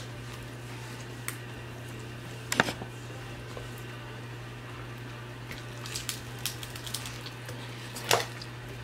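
Close mouth sounds of a person chewing pizza: a few short, wet smacks and clicks, the loudest about two and a half seconds in and near the end, over a steady low hum.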